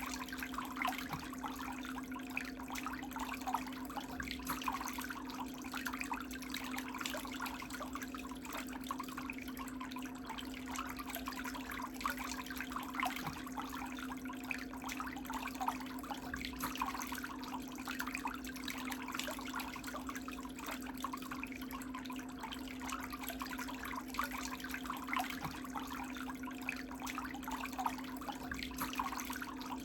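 Water running and splashing steadily, over a constant low hum.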